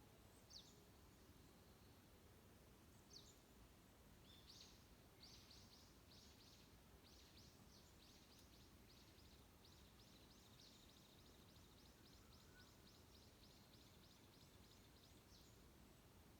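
A wild bird calling faintly: two single high, downward-sliding notes, then a long rapid series of the same falling notes, about three a second, that stops shortly before the end. A faint steady hiss of forest ambience lies underneath.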